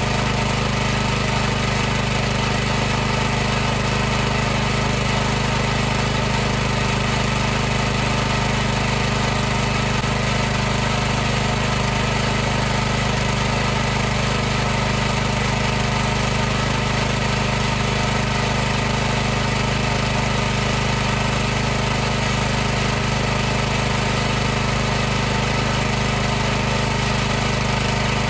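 High-pressure washer's pump running steadily: an unchanging mechanical drone with a strong low hum.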